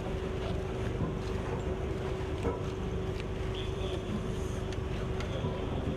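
A large vessel's engines running with a steady low rumble and a constant hum, with a few faint clicks now and then.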